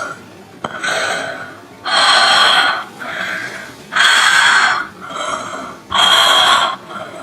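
Heavy rhythmic breathing: a loud breath of about a second every two seconds, with a softer breath between each.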